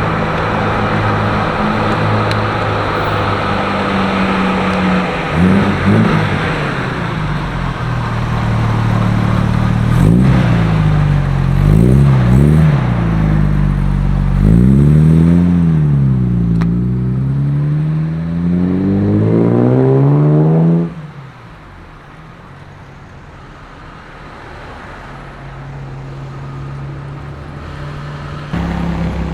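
Classic car engine idling, then revved repeatedly with short blips and a longer climb in pitch. It cuts off abruptly about two-thirds of the way through, after which a quieter engine runs steadily.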